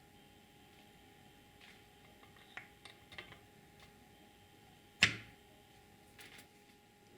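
A few faint clicks, then one sharp knock about five seconds in, followed by a couple of small clicks, over a faint steady hum.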